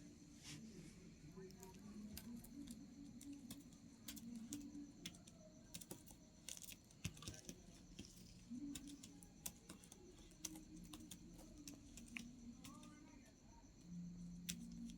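Faint, irregular small clicks and taps over a quiet room, with a faint low hum or murmur in the background.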